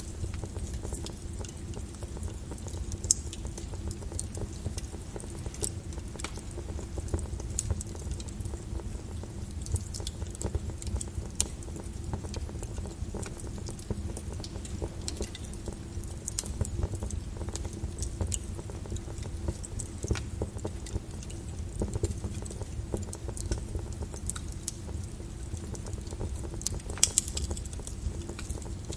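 Wood fire crackling in a fireplace, sharp irregular pops and snaps over a steady low rush, with rain falling steadily. A few louder pops come close together near the end.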